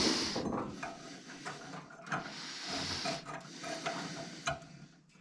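TIG welding torch tacking stainless steel, heard as a few separate stretches of hissing, with small clicks and knocks between them.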